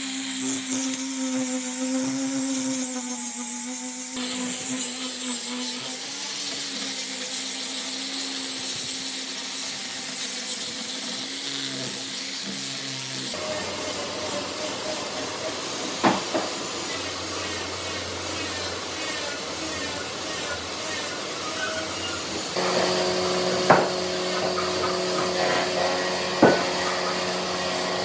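Woodworking shop sounds: a power tool running with a steady hum and hiss, its tone changing abruptly a few times, and three sharp knocks of wood in the second half.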